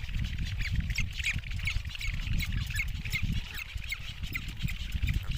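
Anhinga chicks begging in the nest: a rapid, continuous series of short, high-pitched squeaky calls, several a second, over a low rumble.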